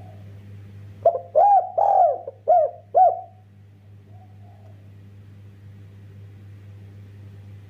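Spotted dove (derkuku) cooing: a phrase of about five rounded coo notes about a second in, then a single soft coo a second later. A steady low hum runs underneath.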